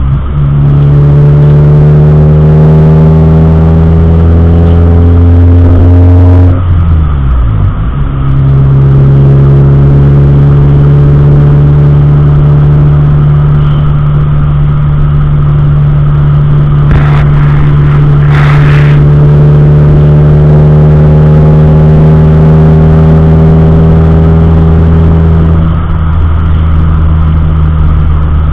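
Car engine running under way, its pitch climbing slowly, dropping once about seven seconds in, then climbing gradually again. Two short rustling noises come near the middle.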